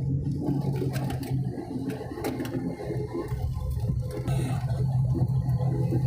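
Airliner cabin noise as the plane rolls after landing: a steady low engine hum and rumble, with a few faint clicks.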